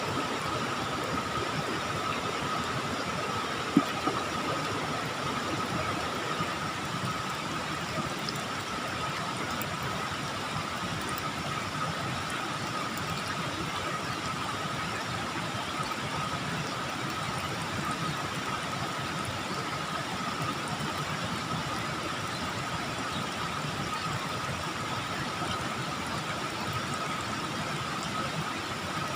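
Steady outdoor background noise: an even hiss with a constant high-pitched tone running through it, and a single sharp click about four seconds in.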